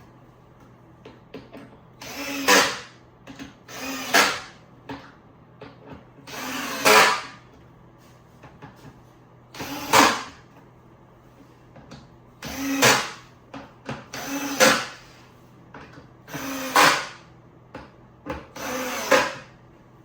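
Electric drill driving screws into the bed frame's boards, run in short bursts, about eight in all, each lasting under a second.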